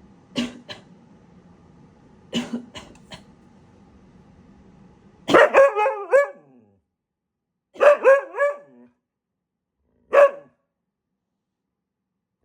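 Husky coughing a few short times, then barking in quick runs of short calls, each dropping in pitch, with a single bark near the end.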